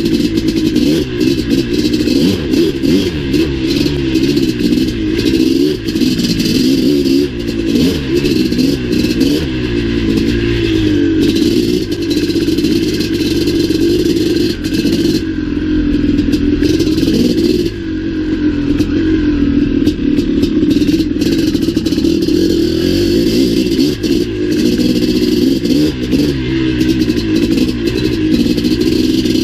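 Maico 700 dirt bike's big two-stroke single-cylinder engine under way, its pitch rising and falling over and over as the throttle is opened and closed. Frequent clattering knocks run through it.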